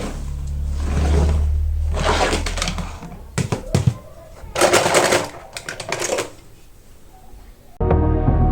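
Toy car packaging being handled and opened: several short bursts of crinkling and sharp clicks, then music starts near the end.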